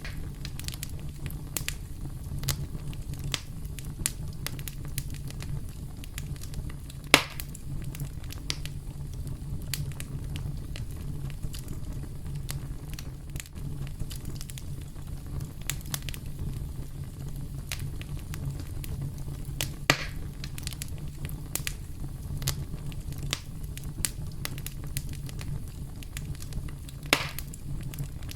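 Campfire burning with a steady low rumble of flames and scattered crackles and pops, the loudest sharp pops about 7 seconds in, near 20 seconds and near the end.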